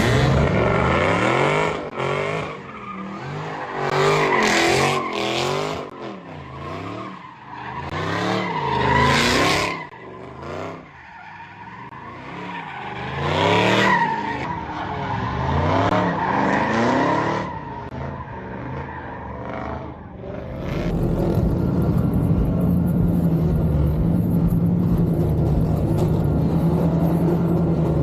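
Dodge Scat Pack's 392 Hemi V8 revving up and down again and again, with tyre squeal, as the car drifts. About twenty seconds in it gives way to a steadier, constant drone.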